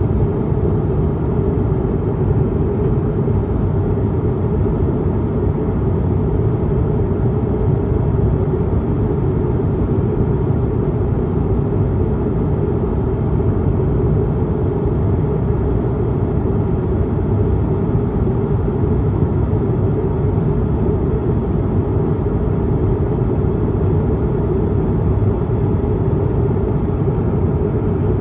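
Steady cabin noise inside an Airbus A220-300 in climb: its Pratt & Whitney PW1500G geared turbofans and the airflow over the fuselage make an even, deep rumble, with a faint high tone above it.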